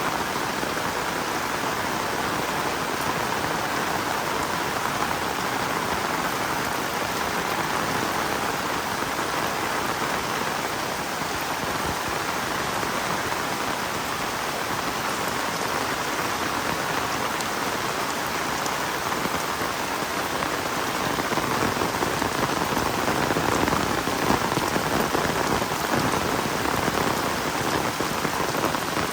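Heavy rain falling in a steady, dense hiss of raindrops on surfaces, growing a little louder past the middle.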